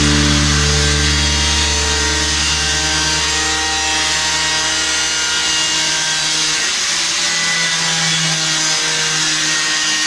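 An electric power tool running steadily at a constant pitch, a motor hum with a noisy cutting or grinding sound above it.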